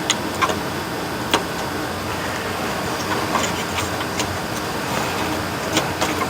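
Scattered light clicks and taps of plastic instrument-cluster parts and connectors being handled and fitted, over a steady background hiss.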